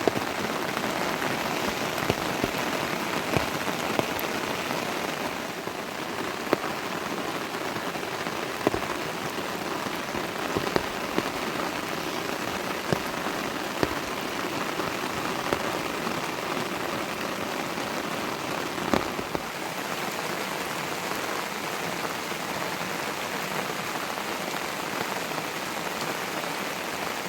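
Steady rain falling, with scattered louder drops striking close by every second or two.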